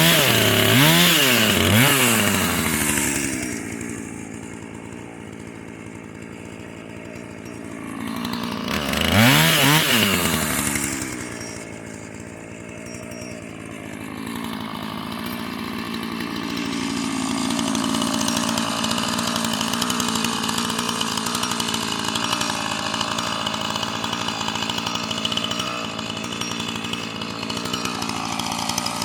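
Husqvarna chainsaw revving up and down several times, dropping back to idle, then revving again about nine seconds in. From about fourteen seconds on it runs steadily at a lower pitch.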